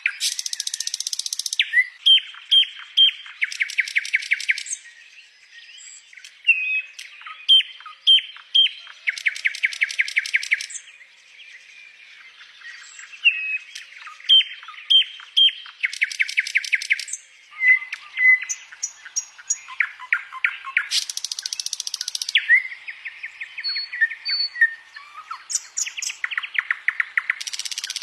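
Songbird singing a loud, fast song: short sharp whistled notes, often in quick runs of three, alternating every few seconds with a rapid rattling trill about a second long.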